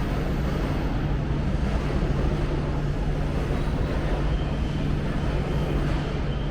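Steady running noise of an E4 series double-decker Shinkansen heard inside the lower-deck cabin: an even rush of rolling noise with a constant low hum.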